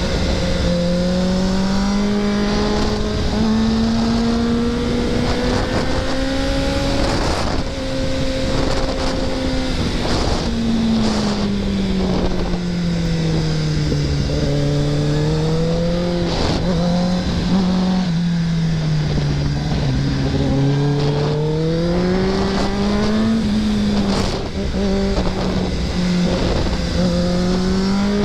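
2024 Kawasaki ZX-10R's inline-four engine running at speed on a canyon ride, its pitch rising and falling smoothly as the throttle is rolled on and off, dipping twice and climbing again near the end, over a steady rush of wind.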